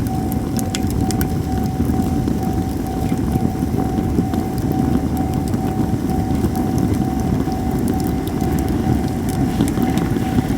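Japanese cedar burning in an open wood fire, with scattered sharp crackles and pops over a steady low rumble. A faint, steady pitched tone runs underneath.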